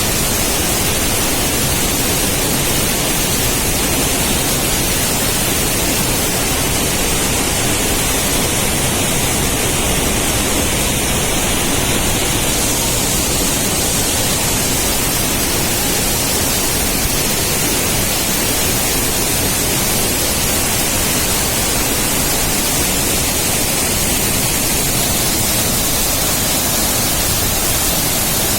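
Water pouring down a waterfall: a loud, steady, unbroken rush.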